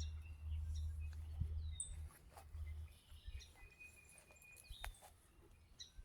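Scattered bird chirps and short whistled calls from the swamp edge, over a low rumble that dies away after the first few seconds.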